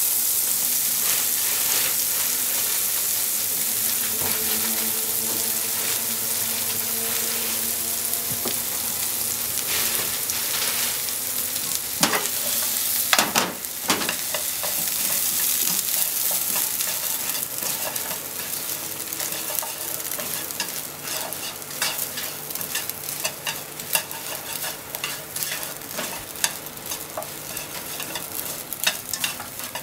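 Bread crusts sizzling in melted butter in a nonstick frying pan, a steady sizzle that gets quieter in the second half. From about the middle on, wooden chopsticks stir and toss the crusts, with a few loud knocks and then many light clicks against the pan.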